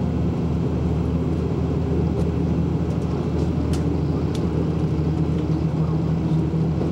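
KiHa 185 series diesel railcar running at speed, heard from on board: a steady low engine drone mixed with rolling noise, with a few faint high ticks.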